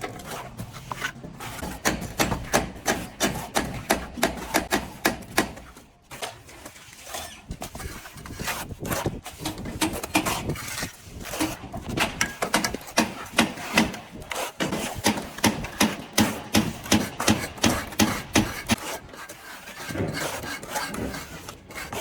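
Plastering hand tool scraping over a plastered wall in quick, even, repeated strokes, about three or four a second, with a brief pause about six seconds in.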